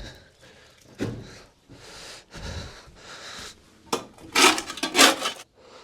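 A series of scraping or sweeping strokes against the wood of a chicken coop as it is cleaned out. About half a dozen noisy strokes each last about half a second, with a sharp knock about four seconds in and the last two strokes the loudest.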